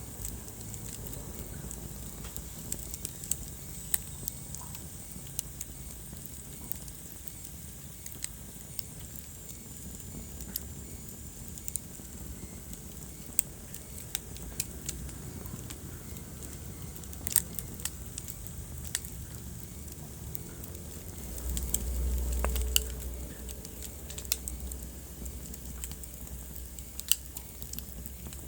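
Wood fire burning in a fireplace, crackling with irregular sharp pops over a steady low rumble of the flames; the rumble swells for a second or two about three-quarters of the way in.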